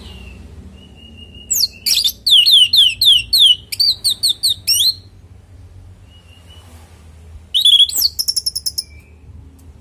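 Orange-headed thrush (anis merah) singing: two loud bursts of rapid, high whistled notes, the first a run of quick downward-sliding whistles lasting about three seconds, the second a shorter rapid trill about two seconds later, with faint thin whistles in between.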